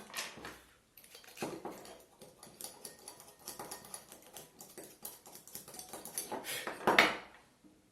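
Scratchy rubbing and scraping in short, irregular strokes as the contact parts of a DP (double-pole) main switch are scrubbed clean, loudest near the end.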